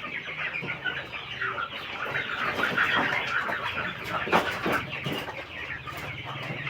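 A flock of village chickens (ayam kampung) clucking and calling over one another in a busy, overlapping chorus, with a few brief flutters or knocks in the middle.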